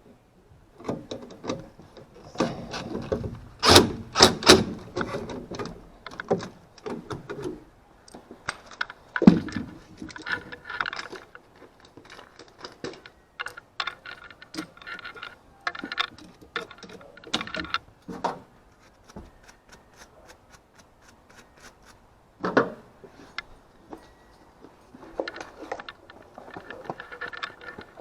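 Irregular clicks, taps and short rattles of hard objects being handled, loudest in a cluster a few seconds in, with single heavier knocks later.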